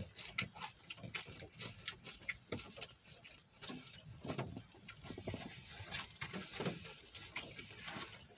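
A man chewing food with his mouth closed: irregular soft, wet mouth clicks and smacks, several a second, with short pauses between.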